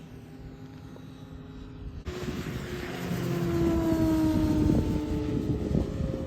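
Radio-controlled model airplane flying past, its engine tone swelling and sliding lower in pitch as it goes by.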